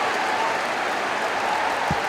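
Large crowd applauding, a steady dense wash of clapping, with one short low thud near the end.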